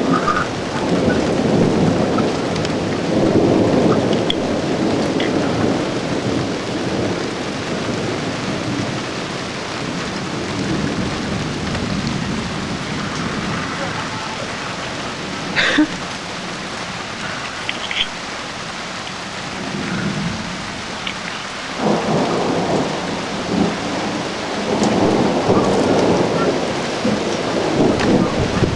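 Steady rain pouring down while thunder rumbles: a long rumble in the first few seconds, another beginning abruptly about three-quarters of the way in and building near the end, and a brief sharp crack about halfway through.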